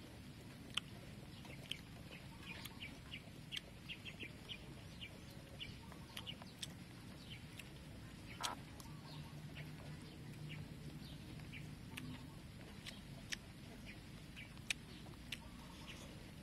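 Faint close-up chewing of a soft duck-egg omelet: irregular wet mouth clicks and smacks.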